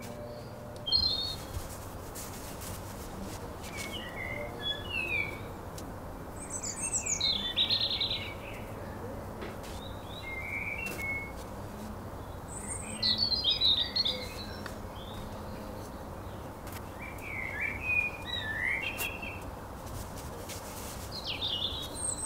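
Birds chirping and singing in short phrases every few seconds over a steady background hiss.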